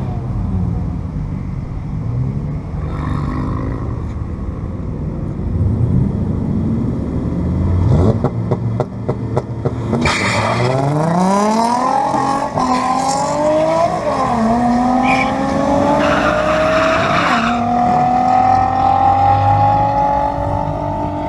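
Turbocharged 5.2 L V8 of a Dodge Ram pickup accelerating hard down a drag strip. About ten seconds in the engine note climbs steeply, dropping back at each of three upshifts, then keeps rising slowly in the top gear.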